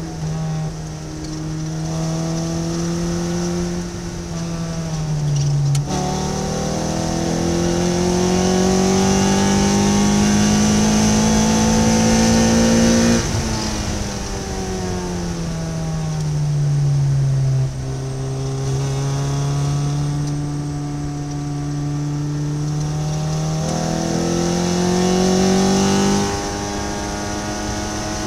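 Ariel Atom's engine heard from the cockpit at track speed, revving through the gears: it climbs in pitch, drops sharply at a gear change about five seconds in, pulls up again, then falls away as the car slows and climbs once more near the end, over a steady rush of wind.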